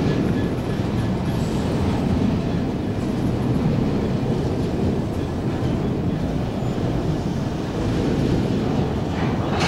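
A Class 66 diesel freight train running past on the rails, a steady rumble of wheels with faint clicks.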